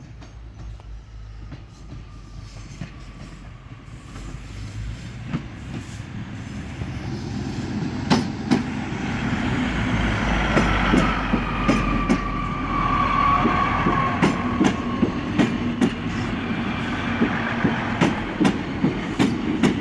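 ScotRail Class 153 and Class 156 diesel multiple unit approaching and pulling into a station, growing steadily louder. A high squeal comes in around the middle, and in the second half the wheels click rhythmically over rail joints beneath a steady diesel engine note.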